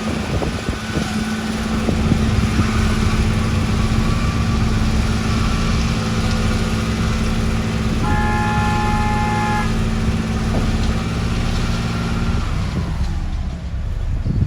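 Heavy diesel engine of construction machinery running steadily. A horn sounds once for about a second and a half around eight seconds in, and the engine note falls away and fades about twelve seconds in.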